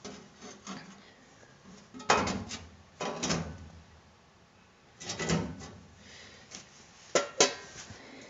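Handling noises from bodywork in a shop: a few short scraping knocks, then two sharp clicks close together near the end.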